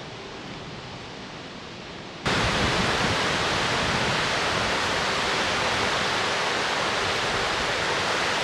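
Loud, steady rushing of river water, which comes in abruptly about two seconds in after a quieter stretch of faint outdoor background.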